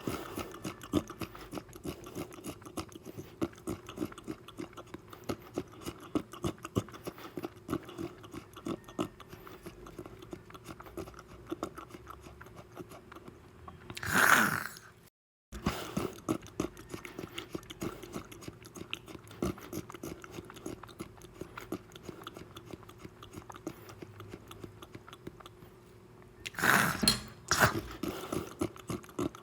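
Close-miked mukbang eating sounds: a steady run of wet chewing and small mouth clicks, with a louder, longer sound about halfway and two more near the end. The sound cuts out completely for a moment just after the middle.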